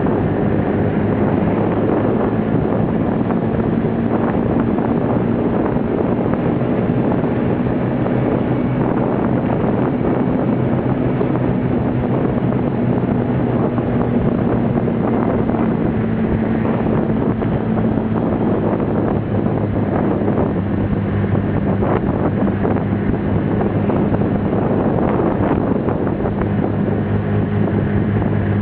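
Small motorbike engine running at a steady note while riding, with wind buffeting the microphone.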